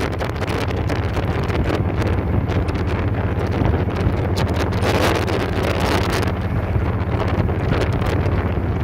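Heavy wind buffeting the microphone on a moving motorcycle, over a steady low engine drone.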